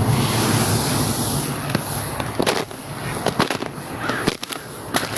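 Footsteps crunching on ice and frozen snow: a string of irregular sharp cracks over a steady hiss of wind.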